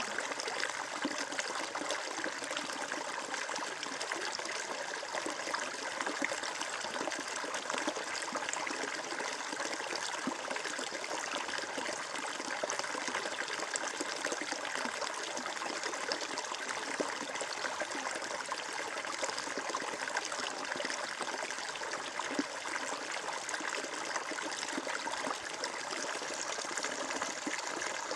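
Steady flowing water, a stream trickling and babbling without pause.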